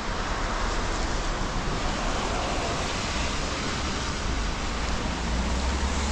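Steady hiss of rain on a wet city street, with a low traffic rumble that swells about four seconds in.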